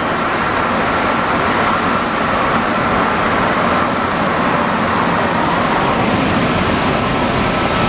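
Steady running noise of an Alstom NS-74 rubber-tyred metro train moving between stations, heard from inside the car, with a faint steady high whine over it.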